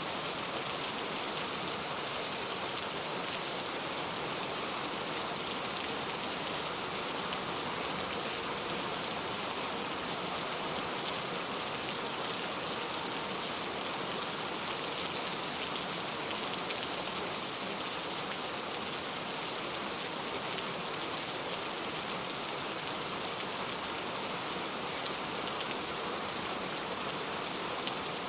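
Steady rain falling: a constant, even hiss of many drops that does not change.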